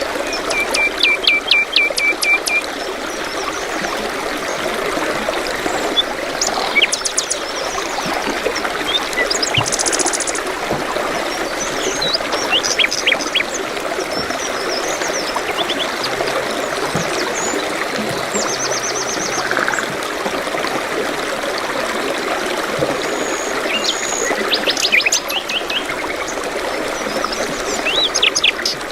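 Several birds chirping and trilling in short calls over a steady rush of running water.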